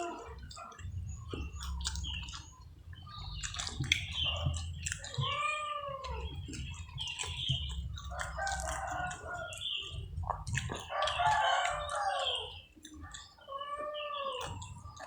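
Close-up chewing and lip-smacking of fried catfish being eaten, many short wet clicks. Over it, repeated animal calls, each rising and falling in pitch, and a steady low hum.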